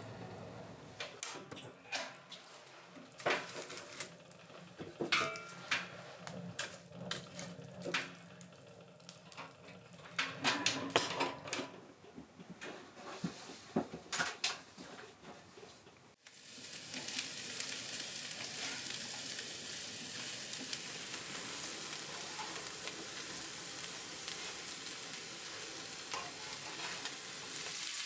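Sharp clinks and knocks of pots and utensils being handled, then, from about sixteen seconds in, a steady sizzling hiss like food frying in a pan.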